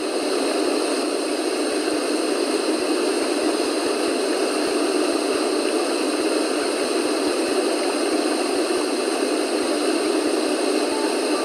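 Steady, even rushing noise with no deep bass, unchanging throughout.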